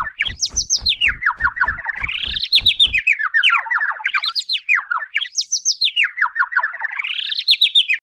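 Bird chirping: a rapid trill that glides up and down in pitch about once a second, over a regular low thump that stops about three seconds in.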